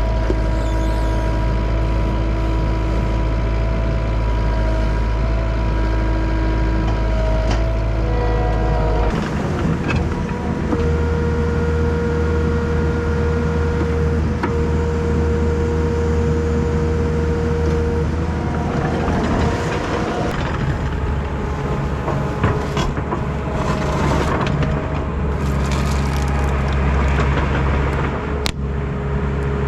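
Takeuchi TL10 compact track loader's diesel engine running, its speed changing about nine seconds in. A steady hydraulic whine follows for several seconds, with a few clanks later on.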